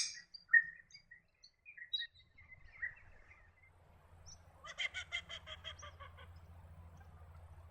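Wild birds calling: scattered short high chirps, then about five seconds in a fast run of a dozen or so harsh, stuttering notes, over a faint low rumble.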